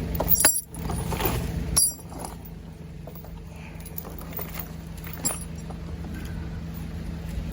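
A machine engine idling steadily while a log chain clinks and rattles a few times, sharpest near the start and about two seconds in. The engine drops quieter after the second clink and comes up again near the end.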